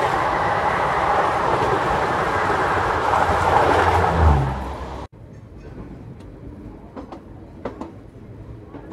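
Loud rushing roar of a Garib Rath express's coaches passing close alongside at speed on the next track, heard from the open doorway of a moving train. The roar cuts off suddenly about five seconds in. What remains is a much quieter train rumble with a few light clicks as the train rolls slowly along a station platform.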